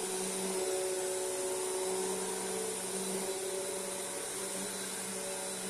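Royal Pro Series Multi Floor upright vacuum cleaner running with a steady motor hum and airflow hiss.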